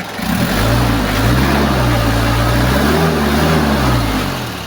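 Kia Bongo diesel engine revved up from idle a few times, its pitch rising and falling over about four seconds before settling back to idle. It is a test run after new glow plugs and a new fuel pump were fitted to cure hard starting and white smoke.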